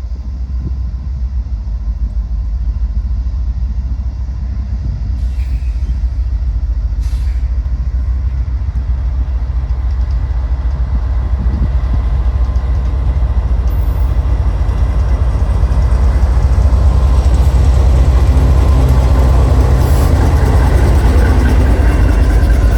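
Train approaching on the rails, its low rumble growing steadily louder and then holding at full strength as it passes close by.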